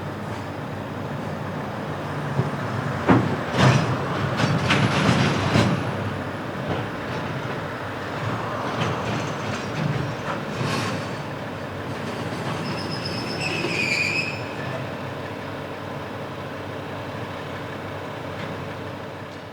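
Freight train running past: a run of wheel clacks over the rail joints a few seconds in, and a short high wheel squeal near the middle.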